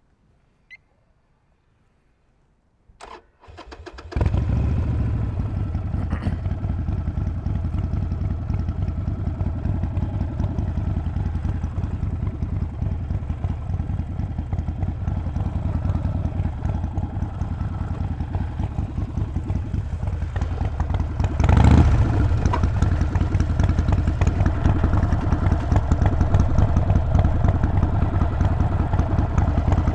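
Harley-Davidson Sportster 48's V-twin engine being started: after a few seconds of near silence it cranks briefly and catches about four seconds in, then idles with a rapid pulsing beat. About twenty-two seconds in there is a brief louder surge, after which it runs a little louder.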